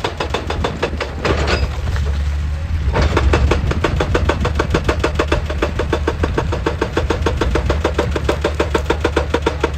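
Excavator at work: a diesel engine drone under a rapid, even knocking of about ten beats a second, with a rushing noise from about a second in that stops near the three-second mark.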